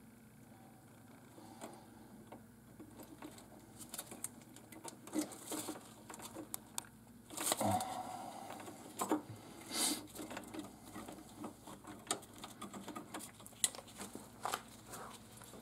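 Irregular small clicks, ticks and rustles of hands working on wires and small parts, with louder knocks and rattles about seven and a half seconds in and again about ten seconds in.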